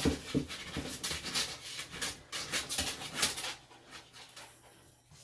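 Senior Bichon–Shih Tzu cross squirming and scuffling while held for grooming: irregular rustling and clicking handling noises that die down after about three and a half seconds.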